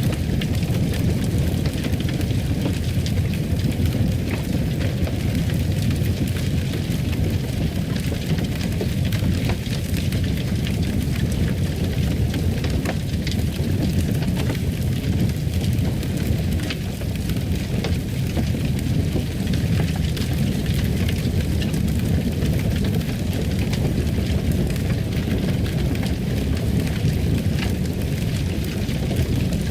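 Fireplace ambience: a fire burning with a steady low rush and many small, irregular crackles.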